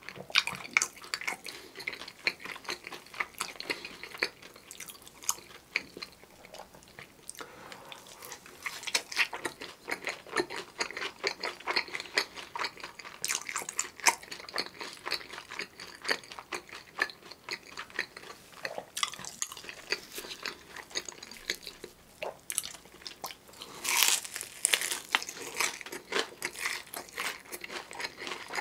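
Close-miked chewing and crunching of a fried breaded cheese stick and a seasoned fried chicken drumstick, a dense crackle of small crunches throughout, with a louder crunchy bite about 24 seconds in.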